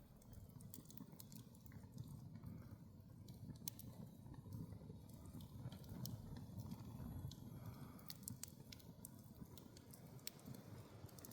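Wood campfire crackling: scattered sharp pops and snaps over a low steady rumble of the burning fire.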